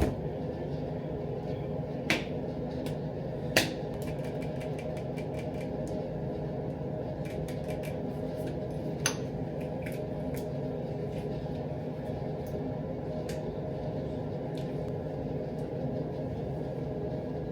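Steady mechanical hum in the room, with a few sharp clicks and taps of small objects being handled, the loudest about two and three and a half seconds in and another near nine seconds.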